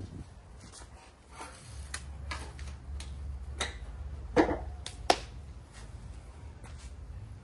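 Scattered clicks and knocks of hand tools and metal mower parts being handled, with two louder knocks about four and a half and five seconds in, over a low steady hum.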